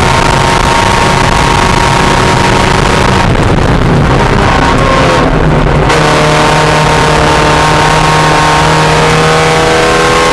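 Mazda Miata race car's four-cylinder engine running hard at high revs, loud throughout. About a third of the way in it eases off for a couple of seconds, then pulls again, its pitch slowly rising.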